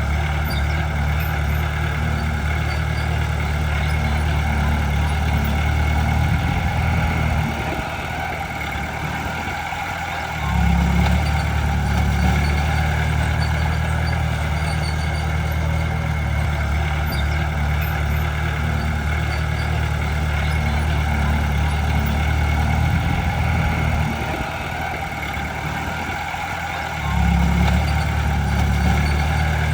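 Heavy diesel engine of earthmoving machinery working steadily under load. It eases off twice for a few seconds each time, then picks up again.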